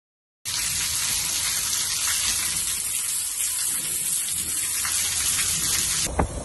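Heavy rain falling steadily as a dense hiss, with runoff pouring off a roof edge; it starts suddenly about half a second in. Just before the end it gives way to wind buffeting the microphone.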